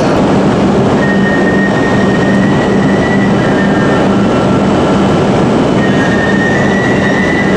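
E5-series Shinkansen train standing at the platform with its doors open, its onboard equipment giving a loud, steady hum. A faint high whine comes in about a second in, fades, and returns near the end.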